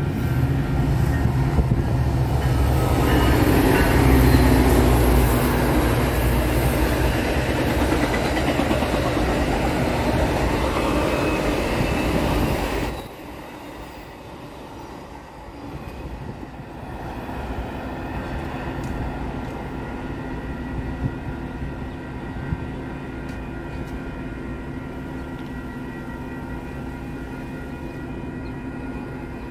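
Metra commuter train of bilevel coaches passing close by, a loud rumble of wheels on rails that is strongest about four seconds in. About thirteen seconds in it drops suddenly to a quieter, steady rumble.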